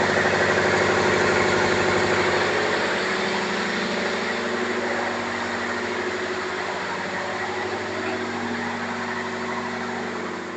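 Ship's diesel generator running steadily in the engine room: a loud, even machinery drone with a steady hum, easing a little in loudness after a couple of seconds.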